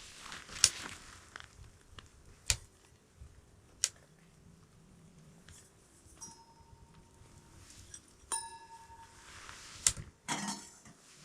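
Small wood-burning tent stove being handled as it starts to heat: a few sharp metal clicks and knocks, faint rustling, and one short metallic ring about eight seconds in.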